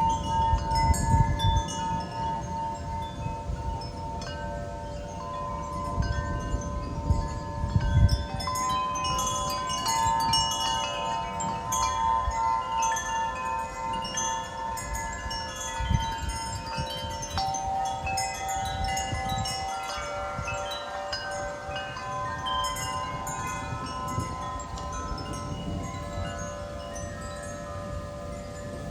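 Wind chimes ringing continuously in gusty wind, many overlapping sustained tones struck again and again, with wind gusts rumbling on the microphone, strongest in the first couple of seconds and around eight seconds in.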